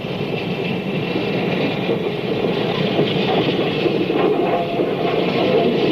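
Union Pacific Big Boy articulated steam locomotive running with its train, a steady, dense train noise that grows slightly louder.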